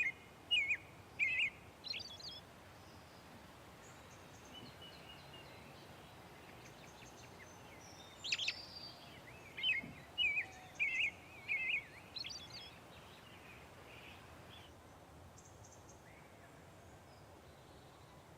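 A songbird singing outdoors in two bouts of loud, repeated short notes: one right at the start and another from about eight seconds in, over a faint steady background hiss.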